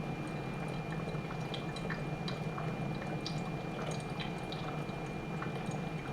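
Hamilton Beach FlexBrew drip coffee maker brewing a pot: a steady low hum with scattered small drips and ticks as hot coffee runs into the carafe.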